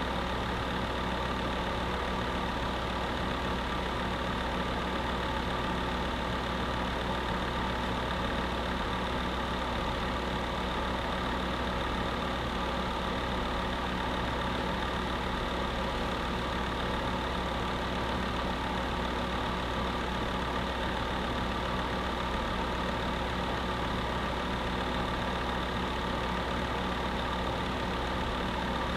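Electric space heater running: a steady, unchanging fan whir over a low hum.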